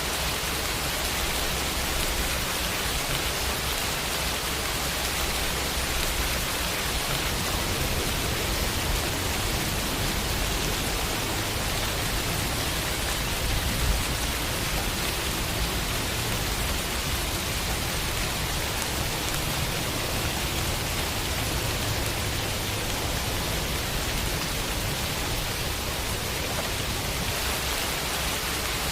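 Steady rainfall on a window, an even hiss of rain with a low rumble underneath and one slightly louder drop or tap about halfway through.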